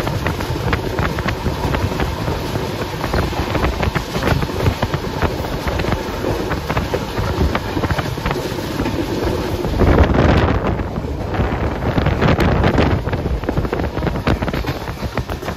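Express passenger train running at speed through a station, heard from on board: steady rumble and clatter of the wheels on the rails, mixed with wind on the microphone. About ten seconds in the rushing noise surges louder for a moment.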